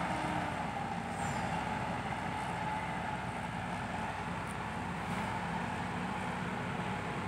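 Heavy diesel engine running steadily at an even pitch, from an excavator or dump truck at work.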